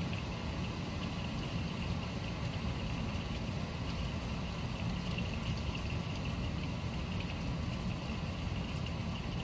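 Steady rain during a night thunderstorm, an even wash of noise over a continuous low rumble, with no sharp thunderclap.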